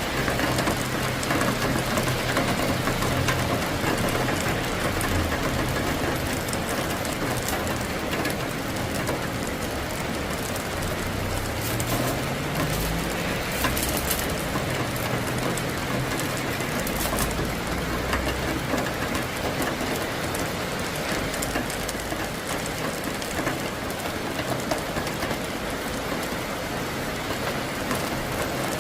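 Steady heavy rain falling and splashing on surfaces, with a low rumble underneath that comes and goes.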